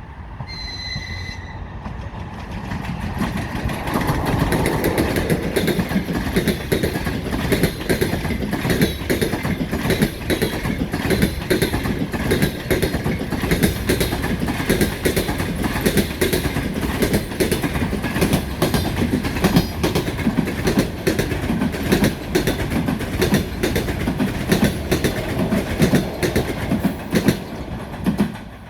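EP20 electric locomotive and its passenger coaches passing close, with a brief high steady tone about a second in. Then come continuous rhythmic knocking of wheels over the rail joints and a heavy rumble, the 'lovely knock'. The sound cuts off just before the end.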